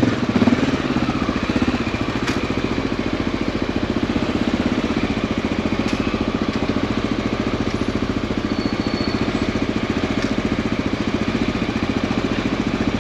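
Motorcycle engine idling steadily in stopped traffic, its firing pulses even and unchanging.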